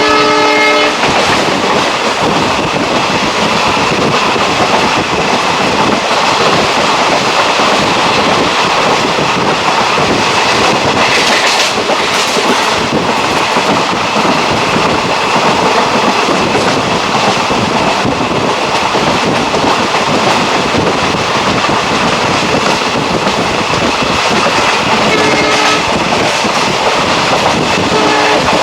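A passenger train of ICF coaches running at speed, with a steady loud rumble and clatter of wheels on the rails. A locomotive horn sounds for about the first second and gives short blasts again near the end.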